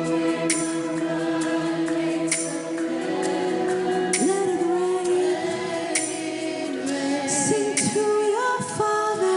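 Live worship music: sustained chords with a cymbal-like hit about every two seconds. From about halfway in, a voice sings wordless, wavering lines over it.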